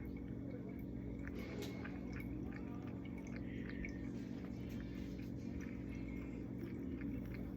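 Steady low hum with faint scattered clicks and light knocks, as of things being handled.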